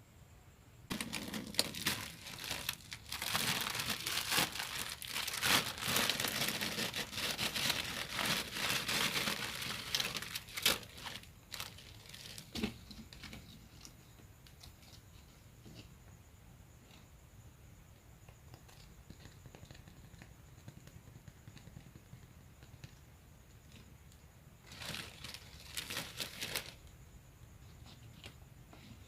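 Close-up dry crinkling and crackling, dense for about ten seconds, then a short burst again near the end.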